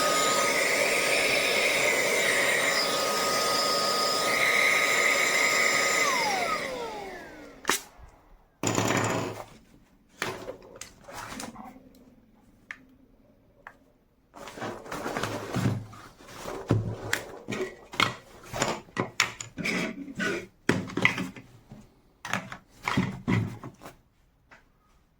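Minthouz cordless handheld vacuum-blower motor running steadily with a high whine, then switched off about six seconds in and spinning down with a falling whine. After that come irregular knocks and clatter of the unit being handled.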